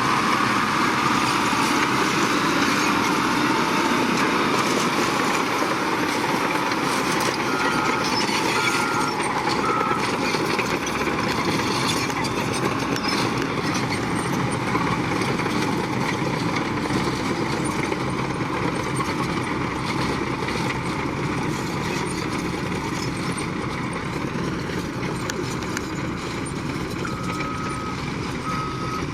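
Diesel engines of heavy earthmoving machinery running steadily under work. A reversing alarm beeps in a short run about a third of the way in, and again at about one beep a second near the end.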